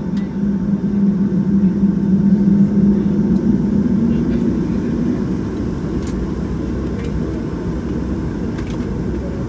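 Cabin noise of a Boeing 757-200 on the ground after landing: the steady rumble of its Pratt & Whitney PW2000 engines and the rolling airframe. It swells for a few seconds about a second in, then eases back to an even level.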